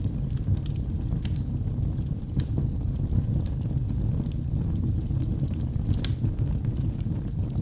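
Wood fire burning in a fireplace: a steady low rumble of flames with scattered sharp crackles and pops from the burning logs, the loudest about a second in and near six seconds.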